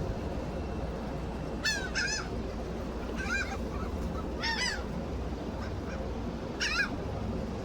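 Seagulls calling: a few short, sharp calls come in small clusters about two seconds in, again around three and a half and four and a half seconds, and once more near the end, over steady low background noise.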